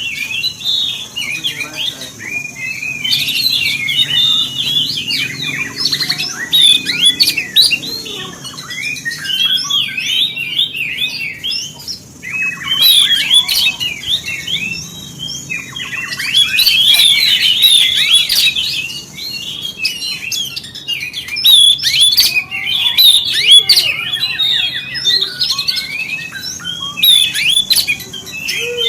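Oriental magpie-robin (kacer) singing a fast, varied song of chirps and whistles in long phrases with short pauses. This is the rousing kind of song used as bait to provoke other magpie-robins into singing.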